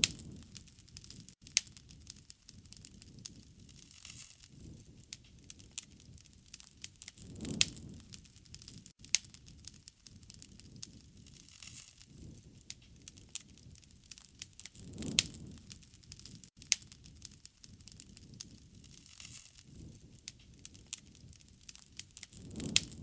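Wood fire crackling, with sharp pops scattered throughout over a low rush of flame that swells about every seven or eight seconds.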